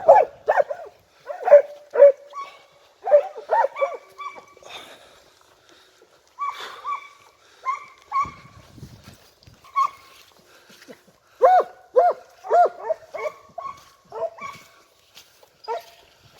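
A pack of Italian scent hounds (segugi) giving tongue on a hare's trail: repeated short yelping bays from several dogs at different pitches, coming in bursts with brief lulls.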